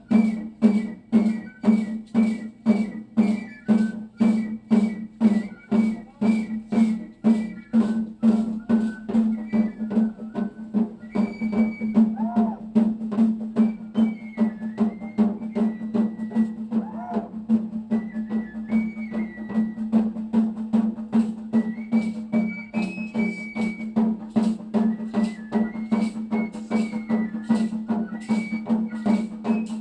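Music for a sonajero dance: percussion beating a steady, fast pulse of about two strokes a second, with a high melody line over it.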